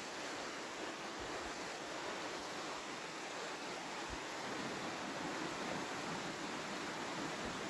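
Waterfall pouring over rhyolite rock into the pool below, a steady rushing of water. Wind catches the microphone in a few brief low bumps.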